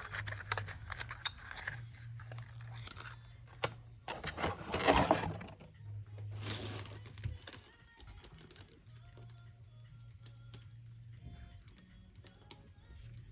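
Handling noise: scattered clicks and rustling, with a louder rustle about four seconds in, over a steady low hum.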